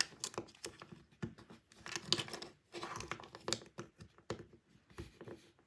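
Scattered small clicks and rustles of small plastic toy parts being handled, as a replacement plastic cog is worked into a toy train's gearbox.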